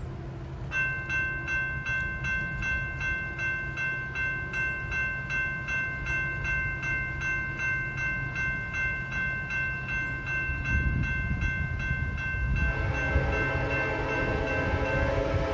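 Railroad grade crossing bell ringing in steady rapid strikes, about two to three a second. Near the end, a train's rumble builds and its air horn sounds.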